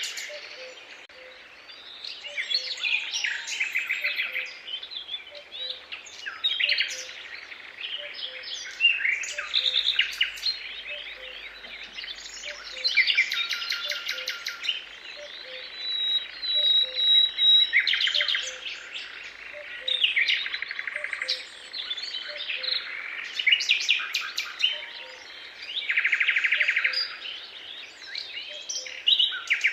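A chorus of several songbirds singing, with overlapping trills, rapid chirps and whistled phrases. Underneath, a faint low call repeats steadily.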